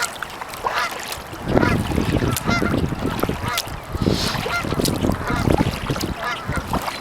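A flock of Canada geese honking repeatedly in many short calls, over a low gusty rumble that gets louder about a second and a half in.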